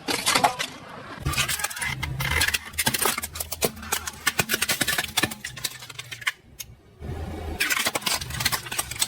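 A car's engine running slowly, with dense crackling and crunching as objects are crushed under its tyres. The crunching stops briefly past the middle and starts again.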